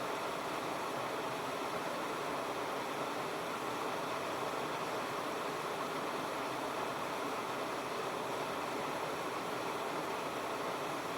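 Waterfall pouring with a steady, unbroken rush of water.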